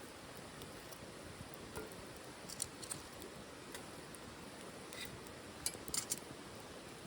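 Small wood fire burning in a titanium wood stove, crackling faintly with scattered sharp pops of burning wood, several close together midway and a cluster near the end.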